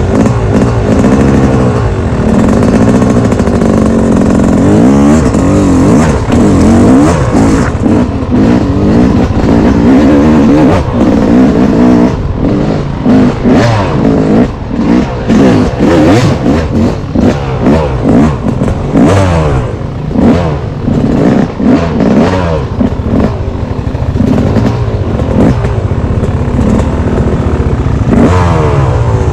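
A single-cylinder off-road engine revving up and down under changing throttle, loud and close. Through the middle the throttle is chopped on and off rapidly, with clatter from the machine running over rough ground.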